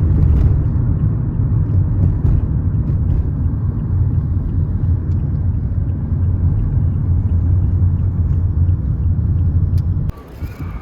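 Steady low rumble of a moving vehicle, with faint scattered ticks above it, cutting off suddenly near the end.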